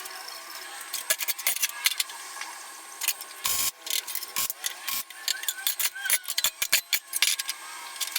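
Irregular metallic clinks and knocks as aluminium parts, flat-bar fixture pieces and clamps are handled and set against a metal welding table.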